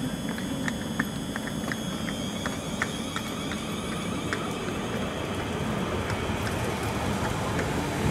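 South Western Railway electric multiple-unit train pulling out of the platform, its running noise slowly growing louder. A run of light, sharp clicks thins out over the first few seconds, and a rising motor whine begins near the end as the train gathers speed.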